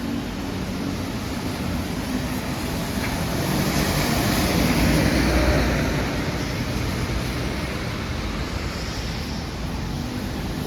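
City street traffic: a vehicle passes, its tyre noise swelling and fading about halfway through, over a steady low hum of engines.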